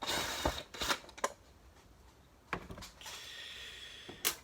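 Clicks and rattles of plastic vacuum-cleaner housing parts being handled and pried apart, as the headlight lens comes off an upright vacuum. A scraping rustle sets in about three seconds in, and there is one sharp loud click near the end.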